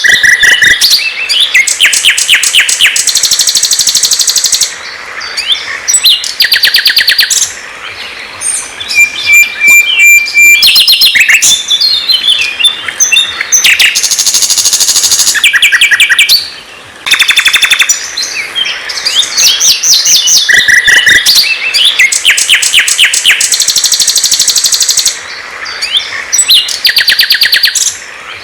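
A songbird singing loudly in a long, varied song of fast trills, rapidly repeated notes and whistles, broken by a few brief pauses.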